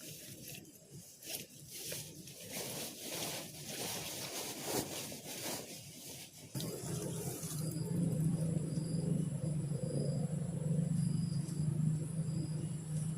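Irregular rustling and crackling, then, after a cut about halfway through, insects chirping in the forest over a steady low hum.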